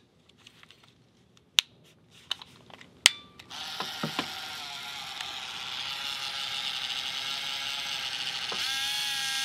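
Point-and-shoot film camera being loaded: a few small clicks as the film cartridge goes in and the back snaps shut about three seconds in. Then the camera's motor whirs steadily for about six seconds, auto-advancing the film, with a shift in pitch near the end.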